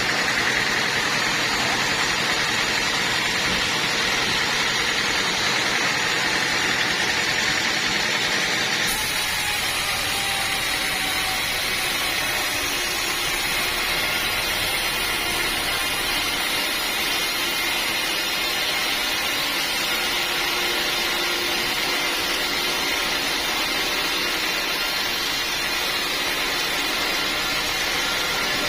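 Sawmill machinery running with a steady whirring noise; the sound changes abruptly about nine seconds in.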